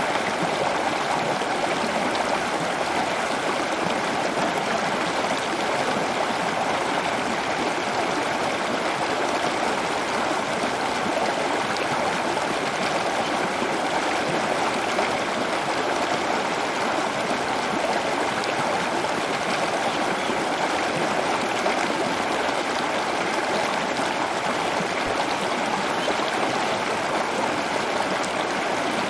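Steady running water, an even unbroken rush.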